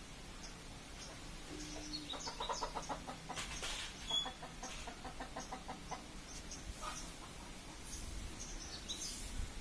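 Birds calling: a rapid run of pulsed low notes, about ten a second, comes twice within the first six seconds. Short high chirps come early and again near the end.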